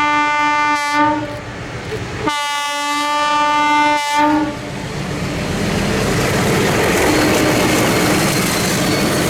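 Train horn: a blast that stops about a second in, then a second blast of about two seconds. Then the train passes close by, a loud steady rumble of wheels on the rails.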